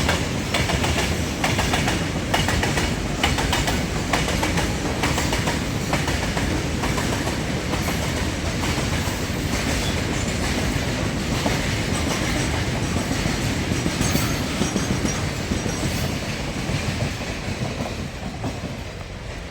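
Indian Railways container freight train, fully loaded, running past at speed: wheels clattering over the rail joints in a steady clickety-clack over a broad rumble, easing off a little near the end.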